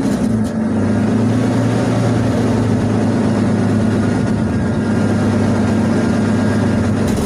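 1991 Ford F-150's inline-six engine running at a steady speed, heard through a V8 exhaust with racing mufflers and a newly fitted L-shaped tailpipe.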